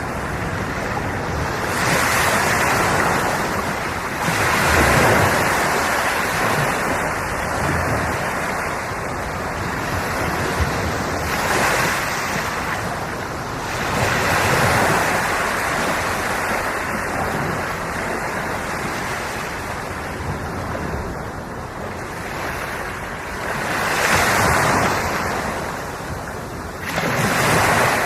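Ocean waves washing onto the shore, a continuous surf hiss that swells as each wave breaks, several times over.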